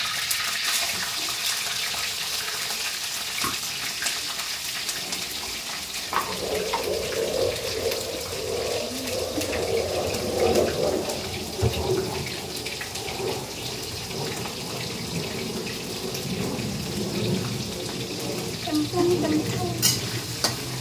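Food frying in hot oil in a wok, a steady sizzling hiss, with a few sharp knocks of the metal ladle against the pan as pieces are scooped out and stirred.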